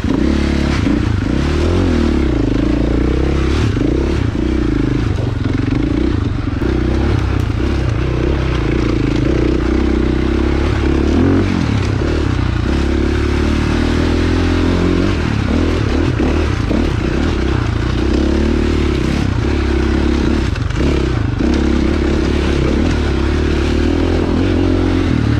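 Dirt bike engine running under way, its pitch rising and falling gently with the throttle, with a few short knocks along the way.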